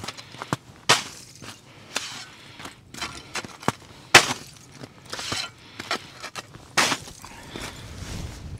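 Ice crust on the ground crunching and cracking underfoot, a few sharp, irregular breaks with smaller crunches between them.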